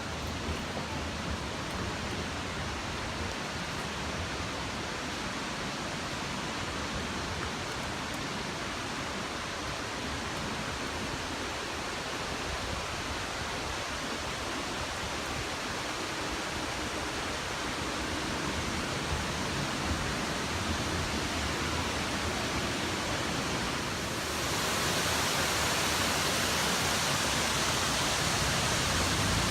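Steady rush of a waterfall, getting louder and brighter near the end.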